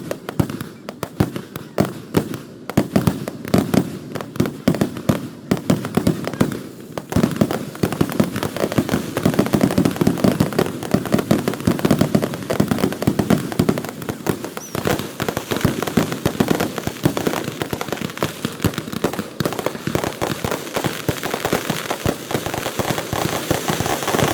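Fireworks crackling and popping in a rapid, dense, continuous string of small bangs.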